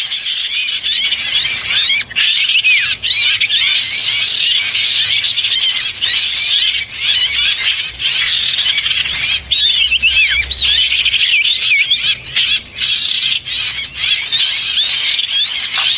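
A loud, dense chorus of small songbirds calling over one another without pause: quick high chirps and twittering notes that rise and fall. This is a bird-lure recording of noisy mixed small-bird calls.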